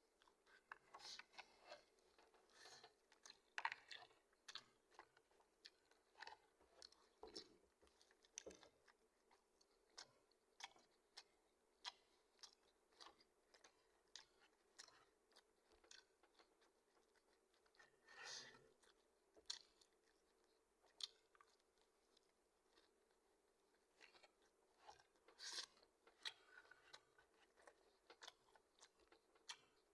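Close-up chewing of crispy fried chicken, with irregular sharp crunches and small mouth clicks.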